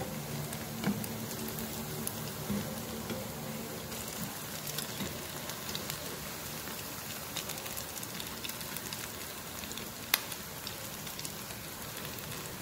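Potato-and-semolina fries frying in hot oil in a pan: a steady sizzle with many small crackles, and one sharp click about ten seconds in.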